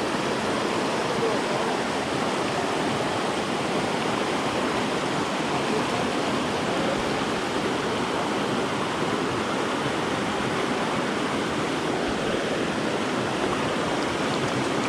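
Small mountain stream rushing steadily over rocks, a constant, even water noise, the creek running full after recent rain.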